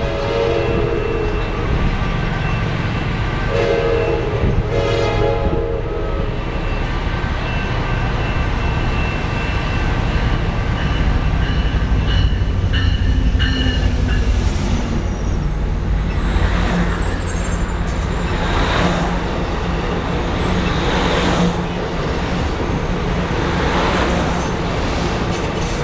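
Train horn sounding twice, briefly at the start and again for about two seconds some four seconds in, over a train's steady low rumble, with several hissing bursts in the second half.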